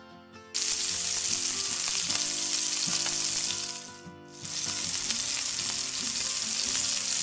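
Eggplant strips sizzling in hot oil in a frying pan as they are tipped in. The sizzle starts suddenly about half a second in, drops away briefly around four seconds, then comes back.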